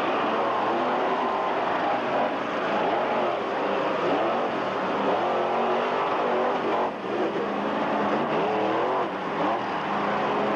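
Monster truck engine revving over and over, its pitch rising and falling repeatedly without a break.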